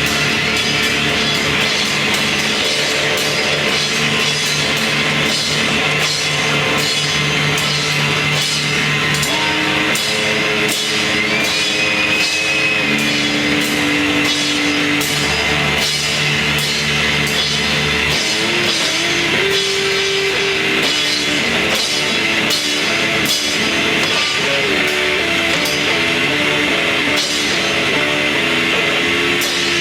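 Live rock band playing heavy, loud music on drum kit, electric guitar and bass, with a steady drum beat. In the second half the guitar plays a fast riff flicking back and forth between two notes.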